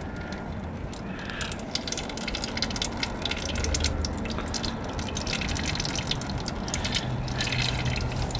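Old engine oil draining from a Kawasaki FR730V riding-mower engine's drain nipple into a catch pan, a steady pour with irregular splashing that picks up about a second and a half in.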